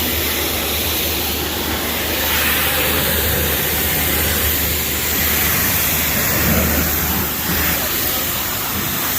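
Steady road and engine noise inside a moving car: an even hiss over a low hum.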